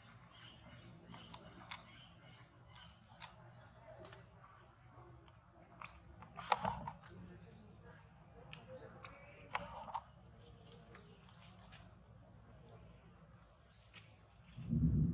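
Short rising bird chirps repeating every second or two, with scattered sharp clicks and a couple of louder squeaks midway. A low rumble sets in near the end.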